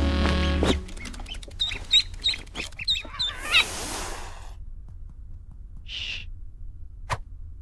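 Music cuts off about a second in. It is followed by a quick run of short, high chirping calls mixed with clicks and a brief hiss, then one more short call and a sharp click near the end.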